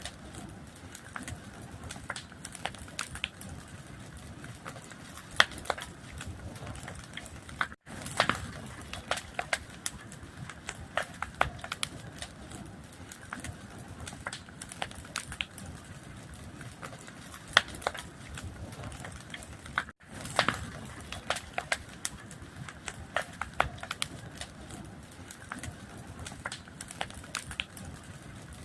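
Wood fire burning steadily, with frequent irregular sharp crackles and pops of the burning wood over a soft low rush of flame. The sound cuts out for an instant twice, about eight seconds in and again about twenty seconds in.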